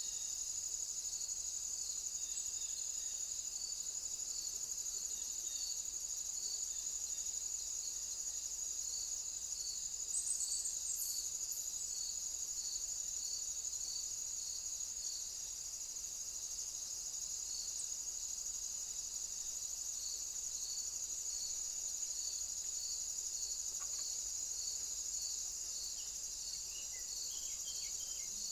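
Insects singing: a steady high-pitched buzz with a second, lower pulsing call repeating about three times every two seconds. A few faint short chirps come through, one in the middle and some near the end.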